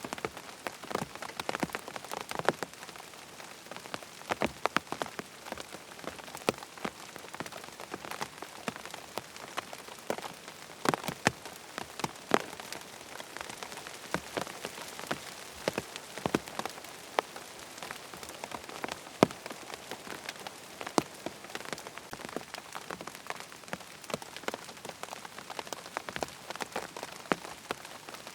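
Rain falling on a tent: a steady hiss of rain with many separate drops tapping sharply on the fabric at irregular moments.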